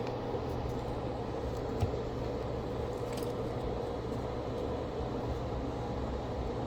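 A steady machine hum, like a fan running, with two faint light ticks about two and three seconds in.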